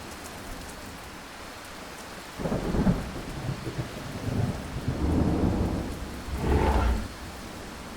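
Steady rain, with a long roll of thunder that breaks in about two and a half seconds in, swells several times and dies away about a second before the end.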